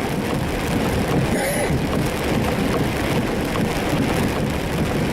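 Heavy rain on a moving car, with steady engine and tyre noise on a wet road, heard from inside the cabin.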